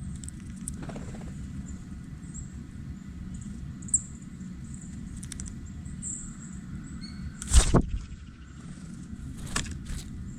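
Outdoor ambience with a steady low rumble and faint high bird chirps, broken by a loud brief thump about seven and a half seconds in and a smaller one near the end.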